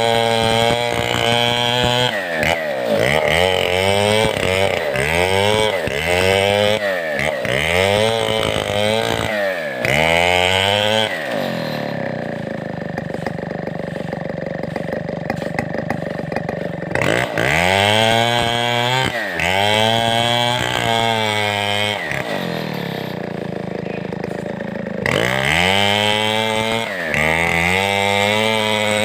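Large two-stroke chainsaw of the Stihl 070 type cutting timber. The engine revs up and sags about once a second in a run of bursts, drops to a steady idle for several seconds, then revs in bursts again twice more.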